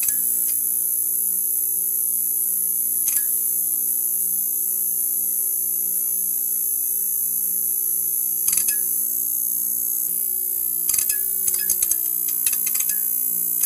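Neon sign buzzing: a steady electrical hum with a high hiss over it, broken by short crackling clicks, once about 3 s in, again about 8.5 s in, and a quick run of them near the end.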